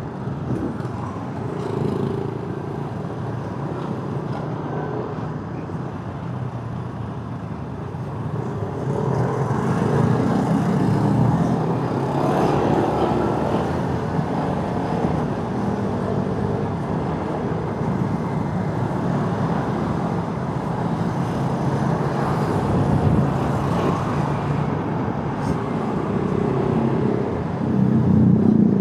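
Motorcycle engine running under way, with wind and road noise and surrounding traffic. It swells louder about nine seconds in and again near the end.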